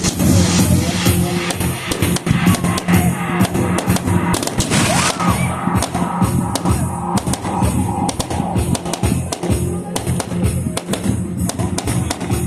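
Fireworks going off in quick succession, many sharp bangs and crackles, over music with a steady bass line.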